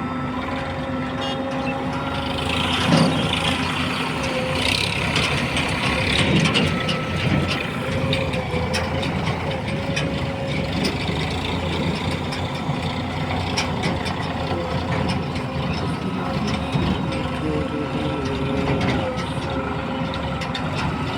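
Diesel engines of tractors and a backhoe loader running steadily under work, with a droning, humming tone throughout. Two louder hissing, rattling bursts come about three and five seconds in.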